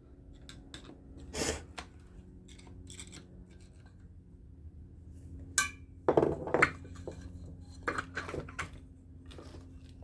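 Metal parts of an electric fan motor knocking and clinking together as the motor is taken apart by hand. There is a single knock early on, a sharp click about five and a half seconds in, then a quick run of clatters.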